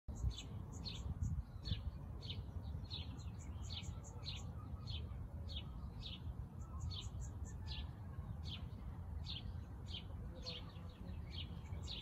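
A small bird chirping over and over: a short, high chirp about every two-thirds of a second, over a low steady rumble.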